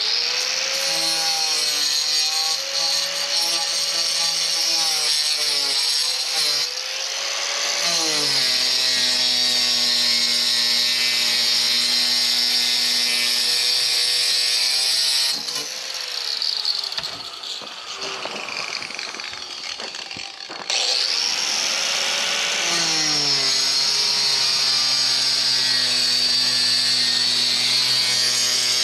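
Power saw with a diamond blade cutting concrete, the motor whining steadily and its pitch sagging under load and then recovering. About halfway through the whine drops away for about five seconds, then comes back at full speed.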